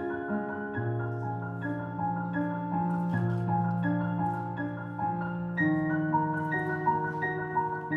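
Piano playing a slow passage: an even stream of repeated notes in the middle and upper range over long, held bass notes.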